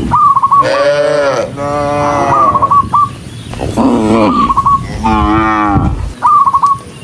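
Several cattle mooing in turn: four long calls, some sliding down in pitch as they end. Short high chirping notes come between the calls, near the start, in the middle and near the end.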